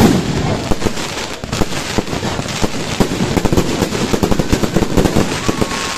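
Fireworks going off: a loud bang right at the start, then a dense, rapid run of bangs and crackling pops, thickest in the second half.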